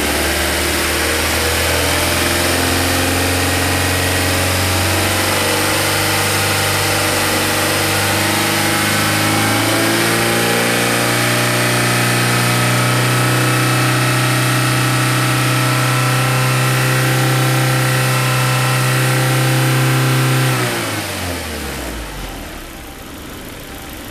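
Car engine revved up slowly over about ten seconds, held steady at higher speed (near 4,000 rpm), then let fall back to idle about 20 seconds in. The engine is being run up for an oil pressure check.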